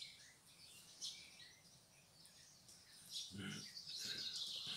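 Faint bird chirps in the background, with a brief low sound about three and a half seconds in.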